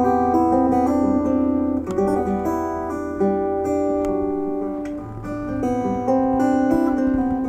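Acoustic guitar playing a slow instrumental introduction, a succession of picked notes ringing over one another.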